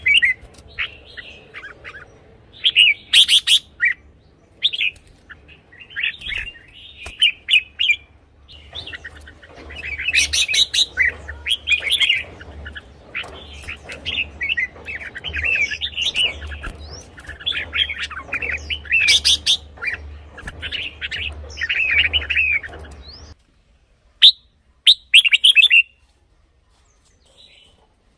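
Red-whiskered bulbul singing: a run of short, bubbly whistled phrases repeated every second or so. A low hum underneath cuts off abruptly near the end, leaving a few cleaner phrases.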